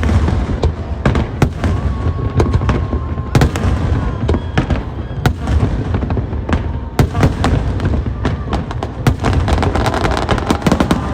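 Aerial fireworks display going off: a steady run of sharp bangs over a continuous low rumble. The bursts come thick and fast, with dense crackling, over the last few seconds.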